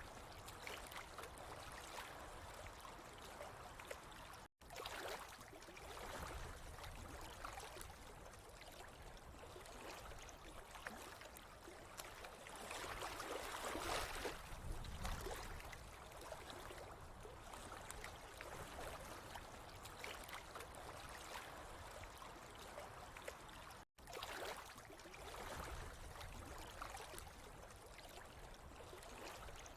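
Water trickling and gurgling steadily, swelling a little louder about halfway through. The sound cuts out for an instant twice.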